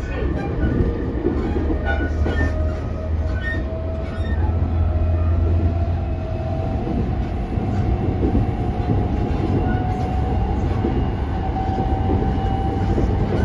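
JR East E217 series electric train running, heard from inside the passenger car: a steady rumble of wheels on the rails with a few clicks in the first seconds. A thin whine from the traction motors slowly rises in pitch as the train gathers speed.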